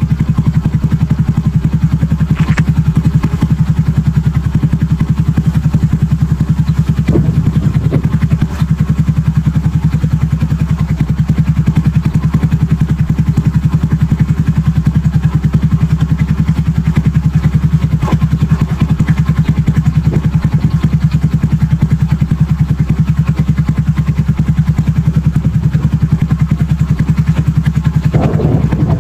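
Honda Super Cub fitted with a BEAMS aftermarket muffler, its single-cylinder four-stroke engine idling steadily with an even exhaust pulse.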